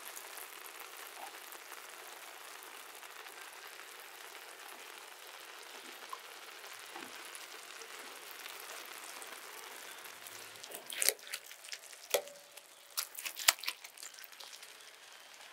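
Beef brain masala sizzling steadily as it fries in a wide, shallow metal pan. About eleven seconds in, a metal spatula scrapes and clicks against the pan several times as the mixture is stirred.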